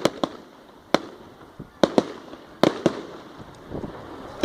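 Fireworks going off: a run of sharp, irregular bangs and cracks, about seven in four seconds, some coming in quick pairs.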